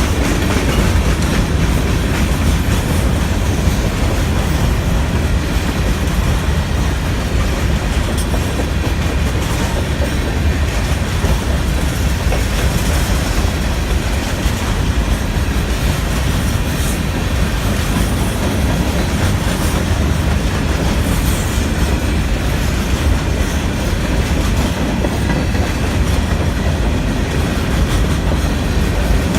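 Freight train of grain hopper cars rolling past, a steady loud rumble with wheels clacking over the rail joints.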